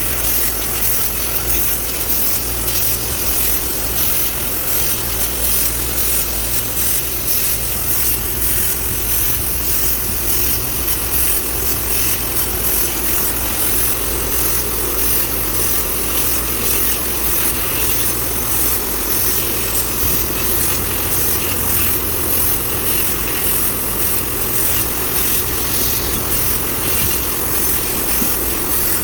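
Steady road and engine noise inside a moving vehicle's cabin, an unbroken low drone with constant hiss.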